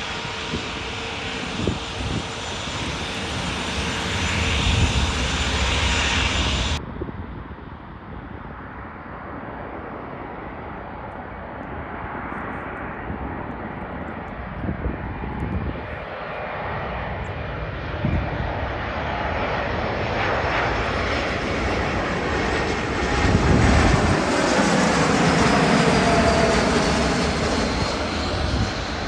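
Jet airliner engines. One aircraft is loud at first, then the sound cuts abruptly to a quieter clip. A second airliner builds up, with a falling whine near the end as it passes.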